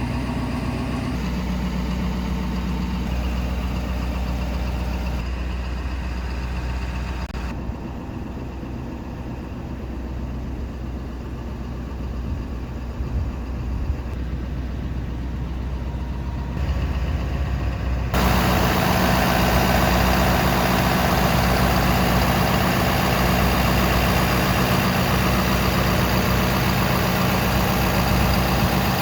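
Ford 6.7 L Power Stroke turbo-diesel V8 idling steadily. About eighteen seconds in the sound jumps abruptly louder and brighter.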